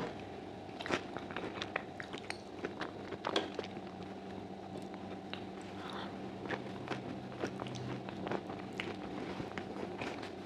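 Close-miked eating sounds: a person chewing braised sheep's trotters with chickpeas, with many short clicks of mouth and food scattered through, over a faint steady hum.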